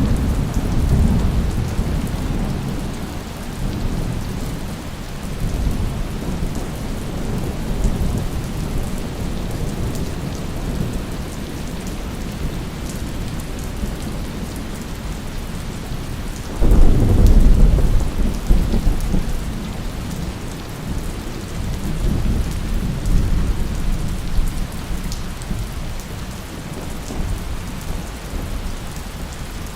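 Steady heavy rain with rolling thunder: a rumble at the start, a sudden loud thunderclap about halfway through that rumbles away over several seconds, and another softer roll a few seconds later.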